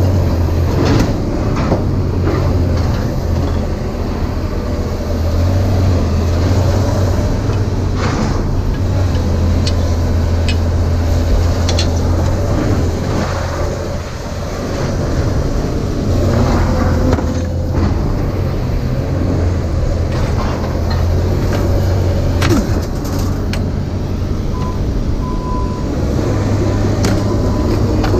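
Vehicle cabin noise while driving: a steady low engine and road drone, with occasional light rattles and clicks.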